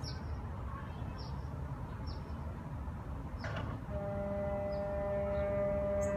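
Low rumbling background with a few short high chirps, then about four seconds in a long, steady, brassy horn-like tone sets in and holds: the kind of droning sky noise that gets called the apocalyptic trumpet sound.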